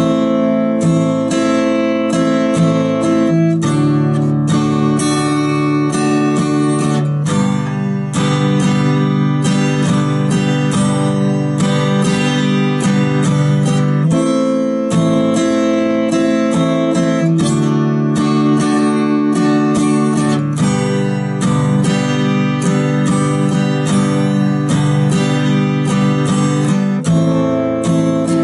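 Steel-string acoustic guitar strummed in a steady rhythm, played slowly and without pauses. It cycles through the chords A minor, D major and G major, one bar each of A minor and D and two bars of G, with the chord changing about every three and a half seconds.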